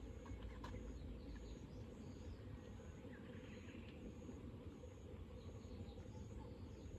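Faint outdoor ambience by a river: a steady low rush, with a high insect chirp repeating about every 0.7 s and a few faint bird chirps.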